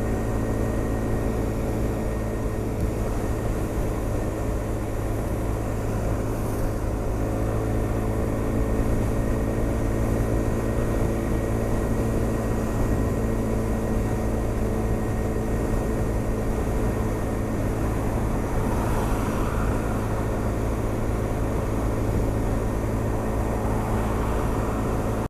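Honda SH 300i scooter's single-cylinder four-stroke engine running steadily at cruising speed, over a low rumble.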